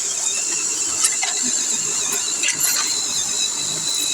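Radio-controlled pulling truck's electric motor and geared drivetrain running under power: a steady, high, slightly wavering whine with a few light clicks.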